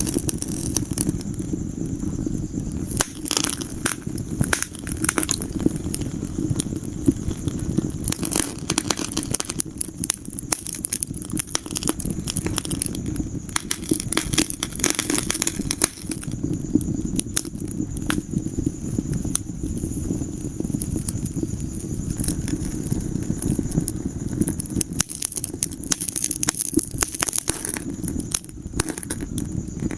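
Wood fire crackling in a fireplace: frequent sharp pops and snaps over a steady low rush of the burning.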